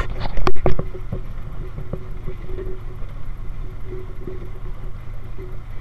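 1931 Ford Model A speedster's four-cylinder engine running as the car drives along, a steady low rumble. About half a second in comes a brief cluster of loud, sharp knocks.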